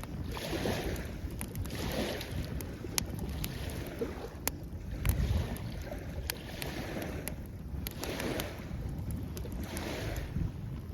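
Wood campfire crackling, with sharp scattered pops, over waves washing on the shore in swells every couple of seconds and a low wind rumble.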